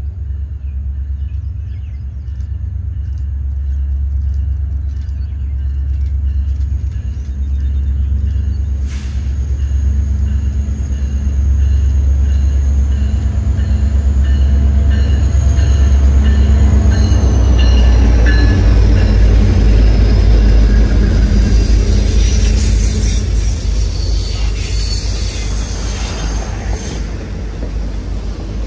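Diesel locomotives of a passenger train approaching and passing close by: a heavy engine rumble that grows louder, with a high whine that drops in pitch as the locomotives go past about two-thirds of the way through. The passenger cars then roll by with wheels clicking over the rail joints.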